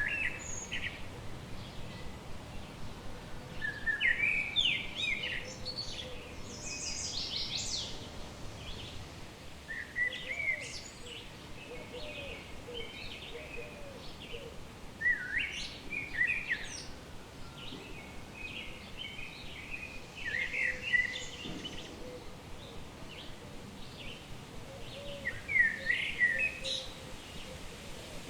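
A songbird singing, a short phrase of sliding notes recurring about every five to six seconds, over a steady outdoor background hiss with fainter bird calls.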